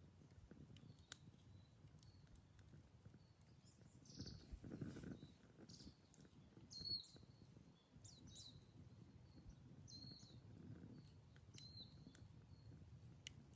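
Faint crackling of a wood campfire, with scattered sharp pops, while a bird gives short high chirps every couple of seconds in the second half. A louder rushing swell passes about four to five seconds in.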